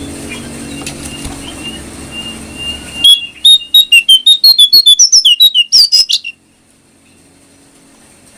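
Brown jongkangan bird song. A few faint thin whistles over a low hum are followed about three seconds in by a sudden loud run of sharp chirps, about seven a second, that climbs in pitch. The run stops abruptly after about three seconds.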